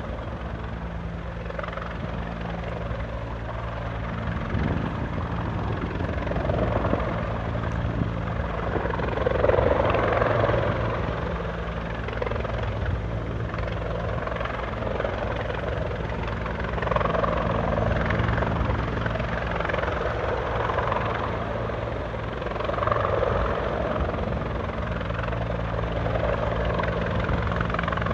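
Rescue helicopter's rotor and engine running continuously, with a steady blade chop and a level that swells and eases several times.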